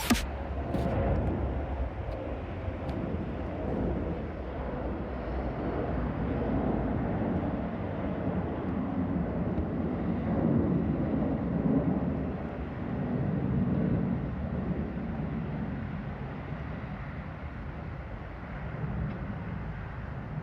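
Steady rumble of vehicle noise with no clear pitch, swelling and easing a few times.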